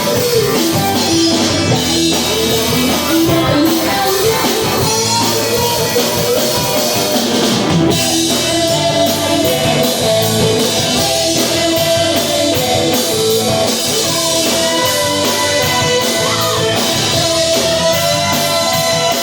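Rock music with electric guitar and a drum kit; a steady cymbal beat is clearest from about eight seconds in.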